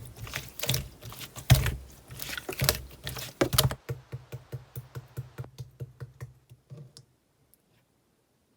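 Clear slime being squished and pressed by hand, making rapid sticky clicks and pops. The clicks thin out and grow fainter after about four seconds and stop around seven seconds in.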